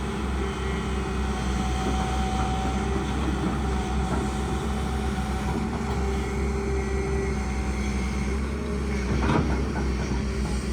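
Excavator's diesel engine running steadily with a steady whine over it, and a short knock about nine seconds in.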